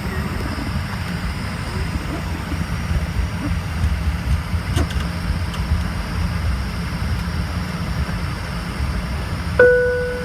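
Steady low roar of cabin noise inside an Embraer ERJ-145 regional jet, engines and airflow. Near the end a single cabin chime rings and fades.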